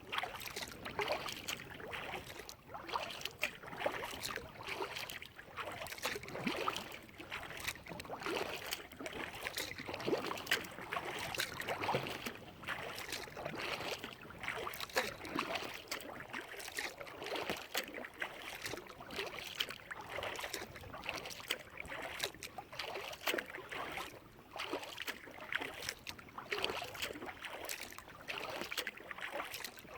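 Kayak paddle strokes in lake water: many small, uneven splashes and drips from the blades.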